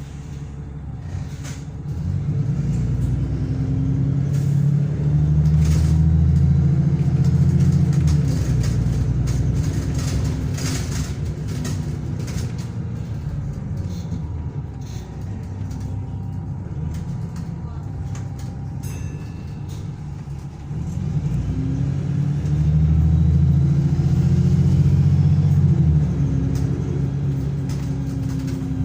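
Diesel engine of a Wright Pulsar Gemini 2 double-decker bus on a VDL DB300 chassis pulling hard under acceleration, its note rising with the revs. It pulls hard twice: first from about two seconds in, easing off after about eight seconds, then again from about twenty-one seconds in.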